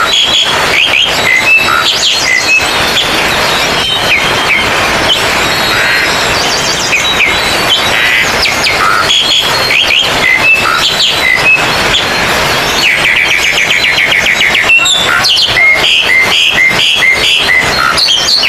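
Several oriental magpie-robins (kacer) singing over one another in a contest-style chorus of whistles, chirps and rapid repeated notes, loud and continuous, over a constant noisy hiss. A run of quick repeated notes comes about thirteen seconds in.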